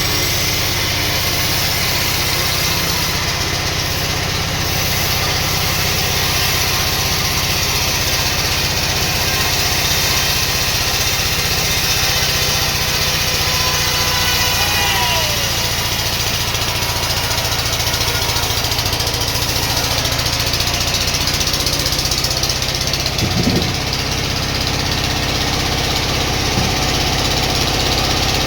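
Sawmill machinery running steadily with a low hum, with two short knocks near the end.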